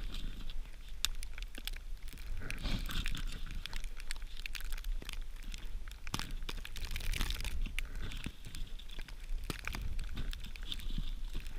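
Dry kindling being handled and broken: irregular snaps and crackles of small sticks, with crinkling and tearing of birch bark.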